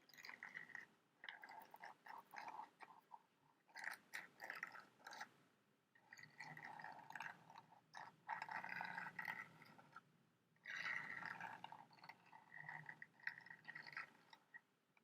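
Close-miked scratching and crinkling sounds in repeated bursts of a second or so, with short pauses between them.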